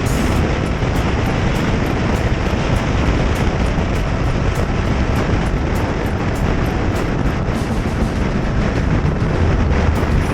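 Motorcycle riding along at speed: a steady rush of wind and road noise, heaviest in the low end, with the engine under it.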